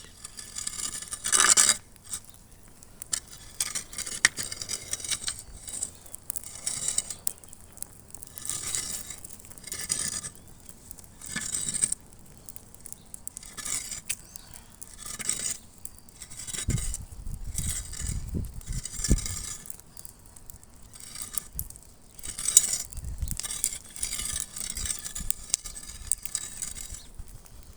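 Short scraping, pattering sounds, repeated every second or two, as a ritual protective circle is marked out on the ground, with a brief low rumble about two-thirds of the way through.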